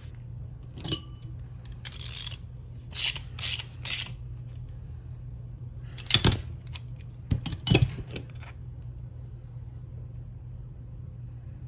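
Metal tools and parts clinking and knocking as a bearing puller is handled and set up to pull a bearing off a gearbox shaft: a scatter of about nine sharp, irregular metallic clinks, over a steady low hum.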